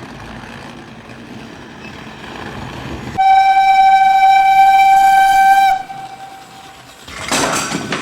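Train horn sounding one loud steady note for about two and a half seconds, after a few seconds of low rumbling train noise; a short burst of noise follows near the end.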